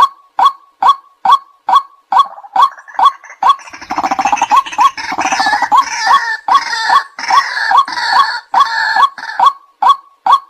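White-breasted waterhen calling: a short, rising "kwak" note repeated about twice a second. From about 2 seconds in until near the end, a louder, harsher, denser chattering of calls joins in over it, then drops away and leaves the steady kwak series.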